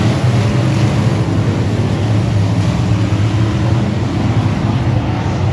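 Dirt-track race car engine running hard at a steady, loud drone under heavy rushing noise, holding near-constant speed.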